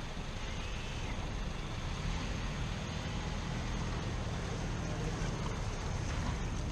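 Gheenoe skiff's outboard motor running steadily under way, with rushing water and wind buffeting the microphone.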